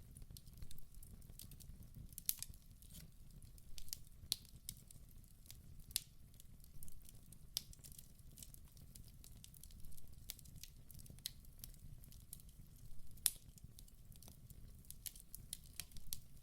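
Wood fire burning in a fireplace: irregular sharp crackles and pops over a low, steady rumble of flame. The loudest pop comes about thirteen seconds in.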